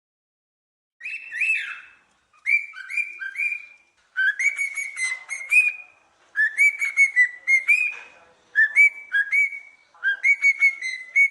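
Songbird singing: about six phrases of short, clear whistled notes, each phrase a second or so long with brief pauses between them, starting about a second in.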